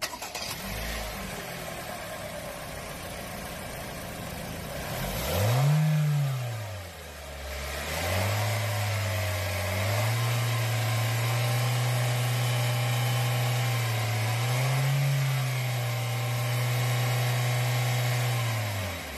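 Toyota 2NR-FKE 1.5-litre four-cylinder petrol engine running at idle, revved once briefly about five seconds in, then held at raised revs from about eight seconds on, with a small extra rise near fifteen seconds. The sound cuts off suddenly at the end.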